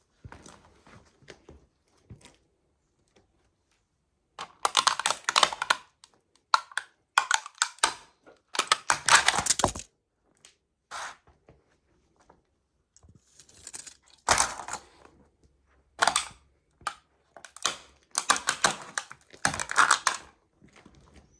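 A toy model truck cracking and crunching under a sneaker sole, in about six bursts of dense crackling separated by short pauses.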